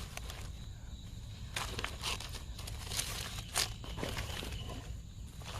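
Dry palm fronds and leaves rustling and crackling as they are gathered and handled, with several sharp snaps in the middle and a low steady rumble underneath.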